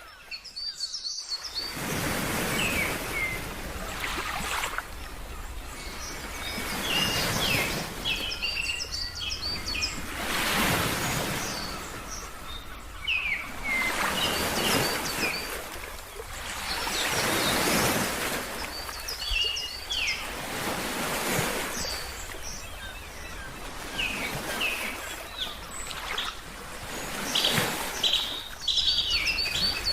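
Ocean waves washing in and out, swelling and fading every few seconds, with small birds chirping repeatedly over the surf. After a brief quiet gap at the very start, the sound runs on without a break.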